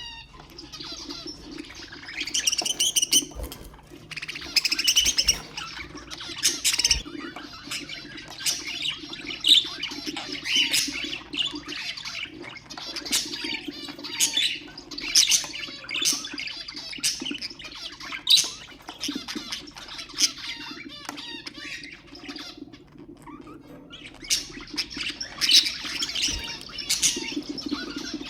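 Budgerigars chirping and chattering continuously, many short calls overlapping with no pause.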